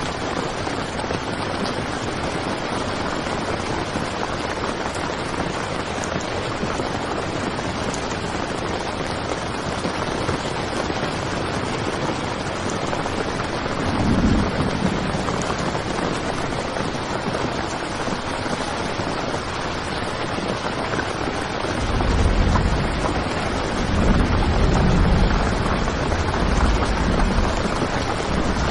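Heavy rain pelting a tent, a dense steady hiss of drops on the fabric. Low rumbles swell in briefly about halfway through and again for several seconds near the end.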